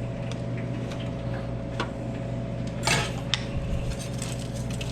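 Scattered light clinks and taps of utensils and dishes while a cook garnishes bowls, with a brief scrape about three seconds in, over a steady kitchen hum.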